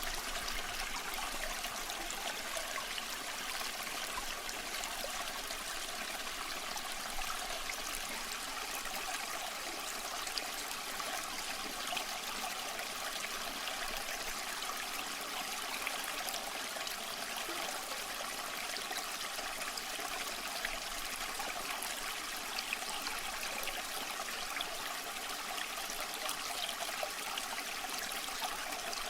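Small stream of water running and trickling steadily, with faint splashing ticks.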